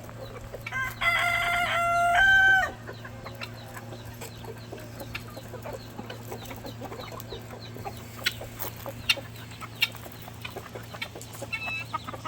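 A rooster crows once about a second in, a single call of about two seconds that steps up in pitch near its end. After it, chickens cluck softly over a steady low hum, with a few sharp clicks.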